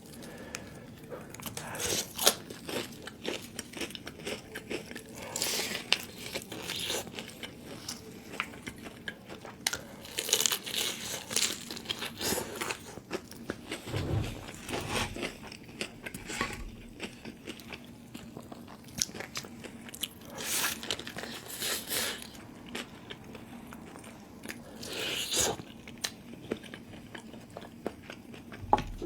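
Close-miked crunchy bites and chewing of crispy fried chicken, a series of irregular sharp crunches with quieter chewing between them.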